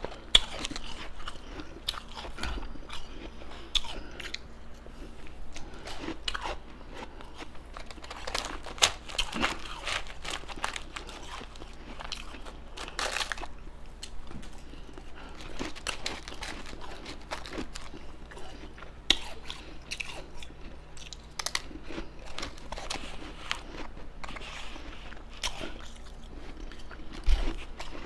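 Close-miked crunching and chewing of crunchy and soft ice: a steady stream of crackly crunches, with a few sharper, louder bites standing out.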